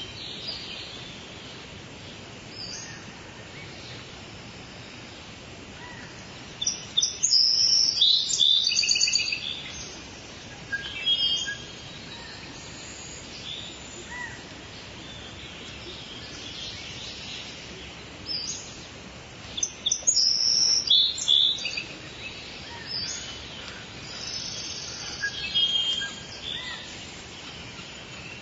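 Steady rain falling, with songbirds chirping over it: two loud bouts of rapid, repeated chirps, one about a quarter of the way in and another past the middle, and scattered shorter calls between.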